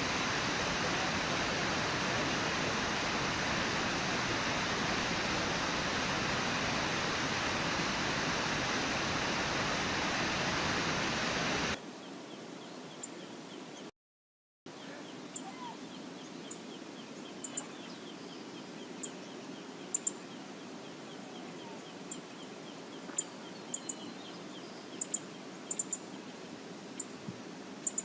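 The steady loud rush of a river waterfall, which cuts off abruptly about twelve seconds in. It gives way to a quieter running-water hiss, after a brief dropout, with small birds giving short, high chirps scattered through the rest.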